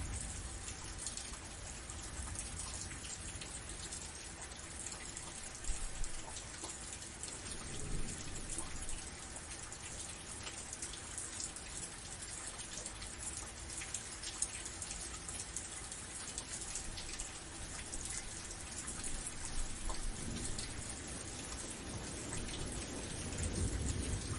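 Steady rain falling, a dense hiss of drops with scattered sharper drop hits. Low rumbles swell up briefly about eight seconds in and again near the end.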